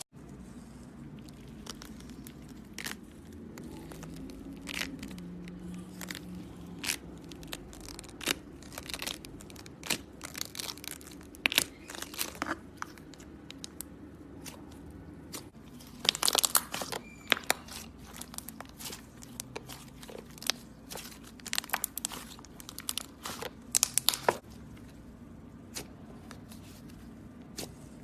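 Butter slime being pressed, stretched and folded by hand, giving off irregular sharp crackling pops and clicks. The pops come in dense clusters, loudest near the middle and toward the end.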